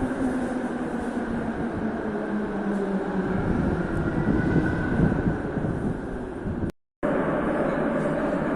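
Metro train running in the station: a steady rumble with a whine that falls in pitch over the first few seconds. The sound drops out completely for a moment near the end, then resumes.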